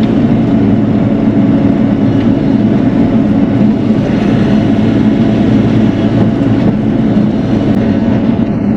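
Bobcat E42 mini excavator's diesel engine running steadily and loudly under hydraulic load while the machine works to roll a big uprooted tree out of the ground.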